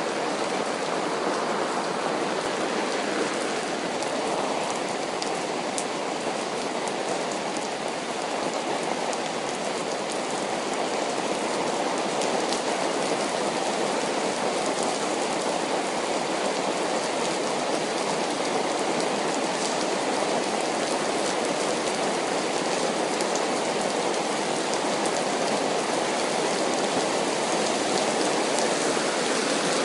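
Steady rainfall: an even hiss with faint scattered drop ticks, growing a little louder near the end. No thunder is heard.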